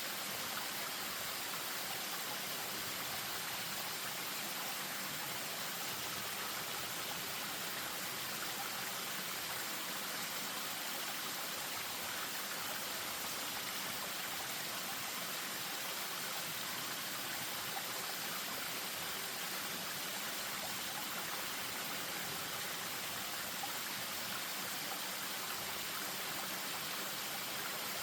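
Spring-fed stream splashing over a small waterfall: a steady, even rush of running water.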